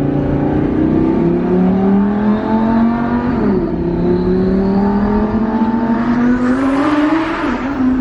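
Twin-turbo 5.2-litre V10 of a Lamborghini Huracan Performante accelerating hard, heard from inside the cabin: the engine note climbs through one gear, drops at a quick upshift about three and a half seconds in, then climbs through the next gear with a rush of hiss building near the end before another shift.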